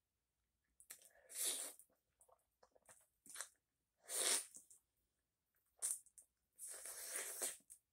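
Close-miked biting and chewing of a hot smoked sausage held on a stick. It comes in several separate bursts, the loudest about a second and a half in, about four seconds in, and near the end.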